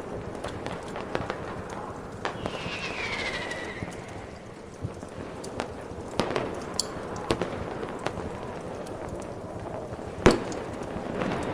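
Fireworks going off: scattered pops and crackles over a steady hiss, a whistle falling in pitch about three seconds in, and one sharp bang near the end, the loudest sound here.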